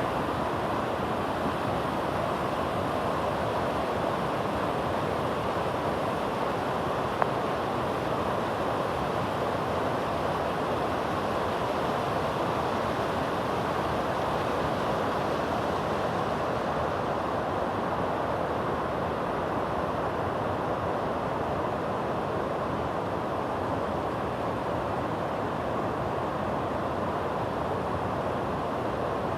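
A high waterfall pouring steadily, an unbroken rush of falling water.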